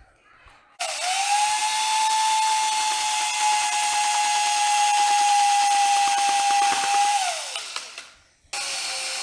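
DeWalt power drill spinning up, running steadily for about six seconds, then winding down with falling pitch, as it grinds the surface rough so the epoxy will grip. A second, lower-pitched run starts abruptly near the end.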